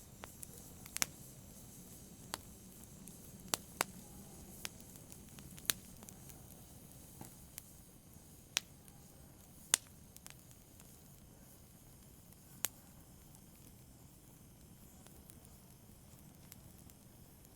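Wood fire crackling: sharp, irregular pops and snaps from burning wood over a soft low hiss, with about nine pops spread through the first thirteen seconds and only the hiss after that.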